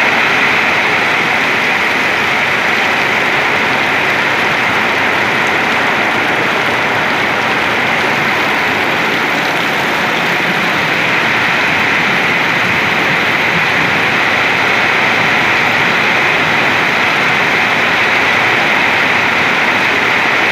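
Heavy rain pouring down in a steady downpour, a dense, even noise that holds unbroken throughout.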